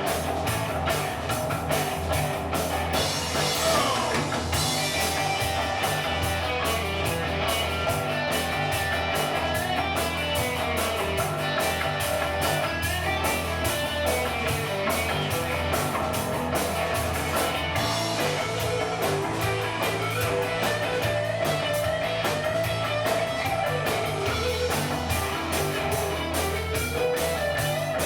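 Rock band playing live: guitar over a steady drum-kit beat, with a guitar note sliding down about four seconds in.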